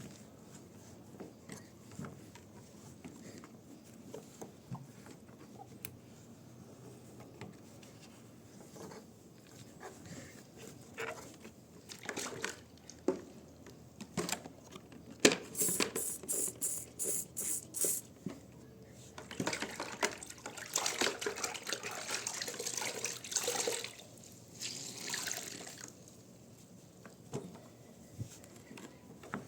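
Water dripping and sloshing, with scattered small knocks. In the middle comes a quick run of about nine sharp strokes, then a few seconds of rushing, splashing hiss.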